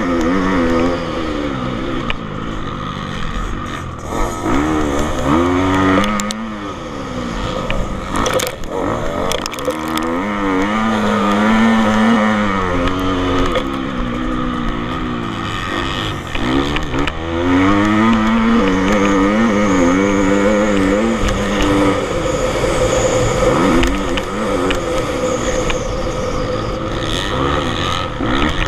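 Motocross bike engines revving hard and easing off over and over, the pitch climbing and dropping with each throttle burst and gear change as the bikes ride the track.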